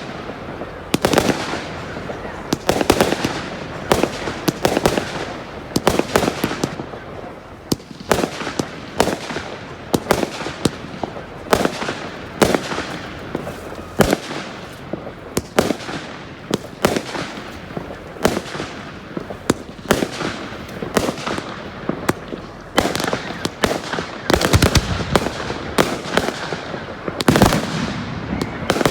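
Fireworks display: a dense, irregular run of bangs and crackling shell bursts, many per second.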